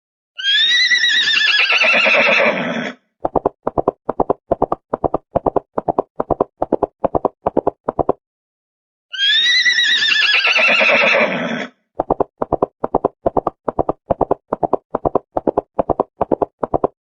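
A horse whinnying, a long call falling in pitch, followed by a quick, even run of hoofbeats; the whinny-then-hoofbeats sequence plays twice with dead silence between, like a clean looped sound-effect track.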